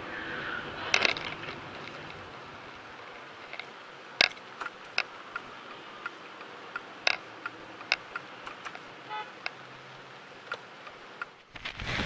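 Vehicle road noise with scattered sharp clicks and knocks. A much louder rushing noise starts suddenly near the end.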